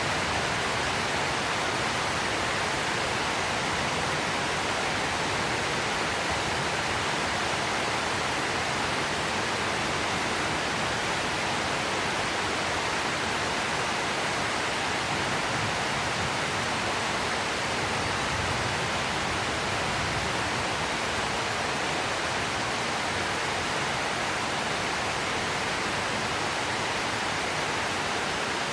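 Rainy-season rain falling steadily: an even hiss that holds the same level throughout, with no drops or gusts standing out.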